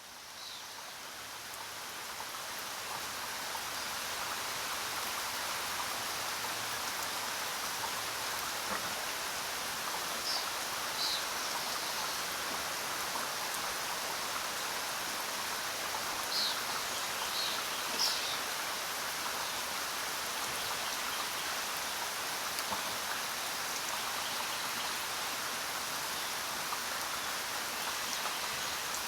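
Steady rain falling on jungle foliage, fading in over the first few seconds and then holding even. A few short, high bird chirps come through in the middle.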